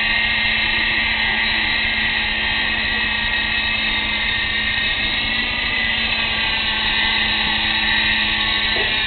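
Hirobo XRB Lama coaxial electric RC helicopter running steadily: a high whine from its motors and gears over a steady low hum.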